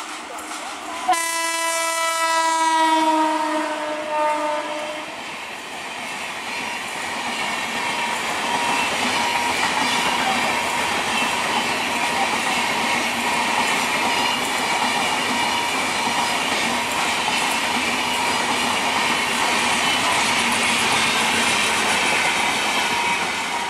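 WAP-5 electric locomotive sounding one long horn blast of about four seconds, its pitch sagging slightly near the end. The passenger coaches then rush past at speed with a steady rumble and hiss of wheels on rail.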